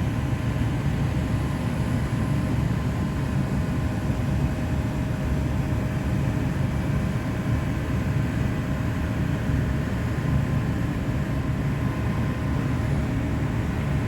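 Steady low drone of a cargo ship's machinery and ventilation heard inside the accommodation, with a faint steady hum of higher tones over it.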